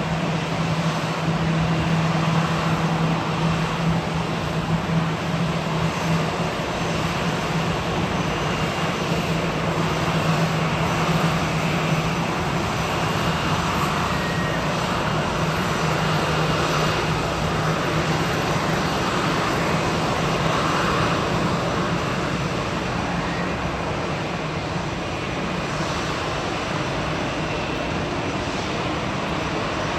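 Airbus A321 jet engines running at low taxi thrust: a steady rumble and hiss with a low hum that fades somewhat about halfway through.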